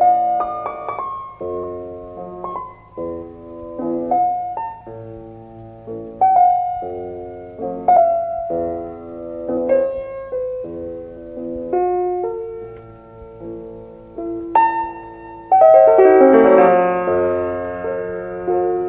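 Slow solo piano music: single notes and soft chords struck and left to ring, swelling into a fuller, louder chord about fifteen seconds in.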